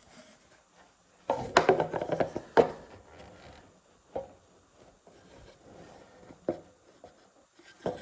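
Rubbing and knocking on wood as tools and a track saw set-up are handled on a door. A busy clatter of knocks comes about a second and a half in, then scattered single knocks.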